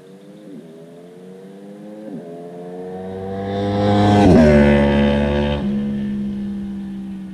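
Honda VFR800's V4 VTEC engine through an SC Project exhaust, accelerating past. It rises in pitch through two quick upshifts, is loudest about four seconds in as the pitch drops on passing, then fades away.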